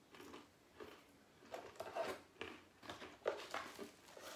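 A person chewing a mouthful of crunchy maple, pecan and coconut granola, with irregular crunches several times a second.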